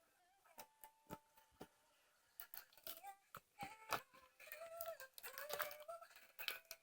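Slime being squeezed and pulled by hand, giving irregular sticky clicks and pops, a few at first and then many close together after about two seconds.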